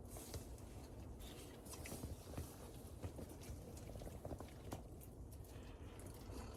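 Someone chewing an oatmeal cookie, faint crunching with small crisp crackles scattered through, over a steady low rumble.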